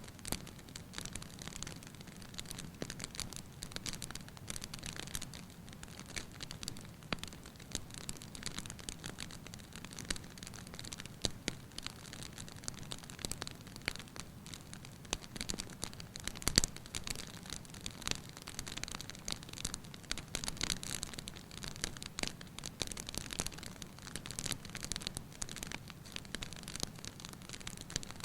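Wood fire burning in a fireplace, crackling with frequent small irregular pops over a low steady rumble of flame. One louder pop comes about sixteen seconds in.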